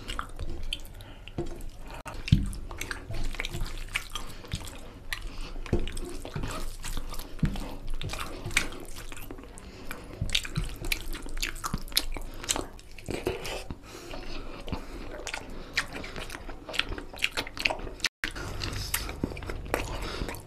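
Close-up wet chewing and biting of curry and rice: irregular mouth smacks and squelches. A split-second dropout breaks the sound near the end.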